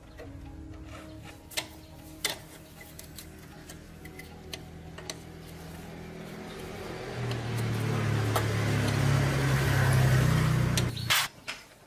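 Small 110cc motorbike engine running, getting steadily louder over the last few seconds as it is revved, then cut off suddenly near the end. A few sharp clicks sound over it in the first seconds.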